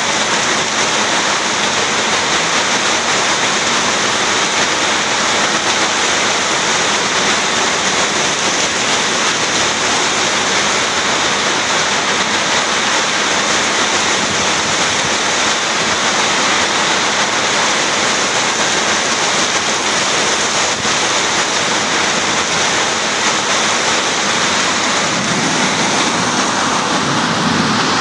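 Heavy wind-driven rain pouring steadily onto a street, a loud, unbroken hiss of water.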